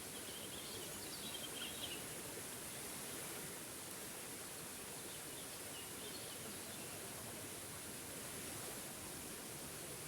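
Steady rushing of a small waterfall, with a bird chirping briefly in the background about a second in and again around the middle.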